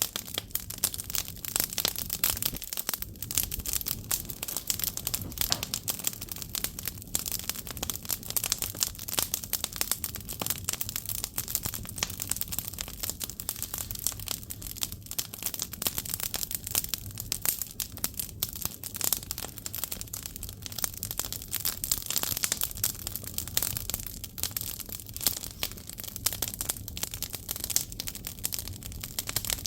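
Firewood burning in an agungi, a traditional Korean wood-fired fire hole, crackling steadily with many sharp pops.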